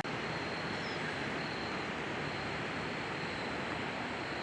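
Steady rushing of a large river, an even noise that does not rise or fall.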